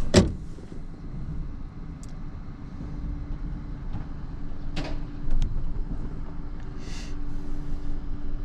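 Parking brake being set with a sharp click, over the low steady rumble of an idling vehicle. About five seconds in there is a knock and a steady hum begins, and a short hiss comes about seven seconds in.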